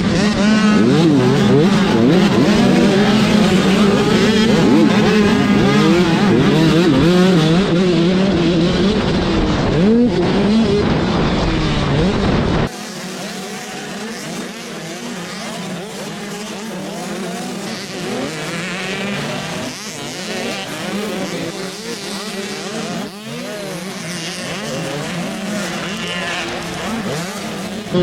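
Several motocross dirt bikes racing together, their engines revving up and down as they accelerate and shift. About halfway through the sound cuts abruptly to a quieter, thinner mix with the low rumble gone.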